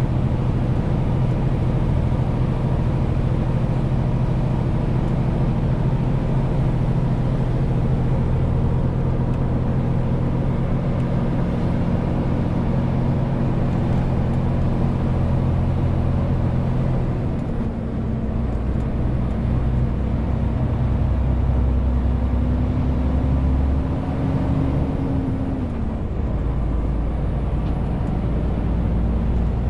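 Diesel engine of a Renault T520 tractor unit hauling 40 tonnes, running steadily under load while driving. The engine note changes about halfway through, then climbs slowly and drops back near the end.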